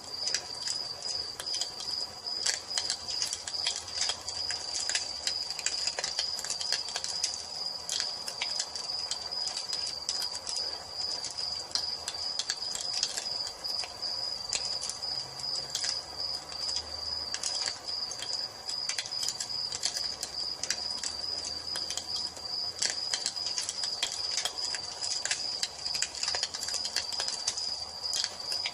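Wood fire crackling with many irregular sharp pops, over the continuous high-pitched trill of crickets.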